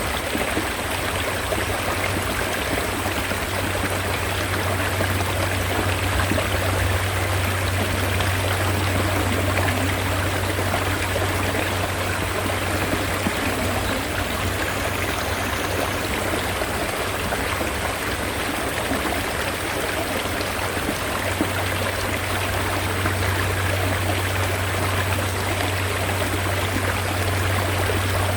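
Mountain stream water running steadily, an even, unbroken rush of flowing water with no distinct splashes or changes.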